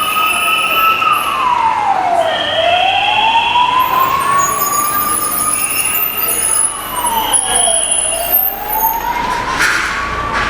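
Emergency siren wailing: the pitch climbs slowly and then drops quickly, about every four seconds, with higher steady tones sounding on and off above it.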